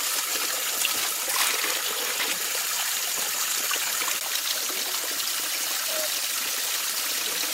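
Running water trickling steadily, like a small stream or water spilling from a pipe.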